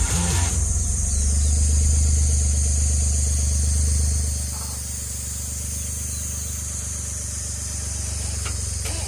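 Suzuki Jimny running on the move: a steady low engine and road drone that eases off about four seconds in, with a steady hiss above it.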